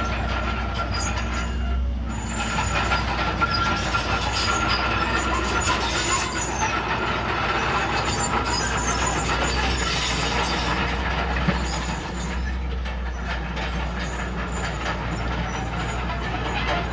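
Komatsu D31PX crawler bulldozer at work: its diesel engine running steadily under a constant low hum, with the continual clatter of its steel tracks.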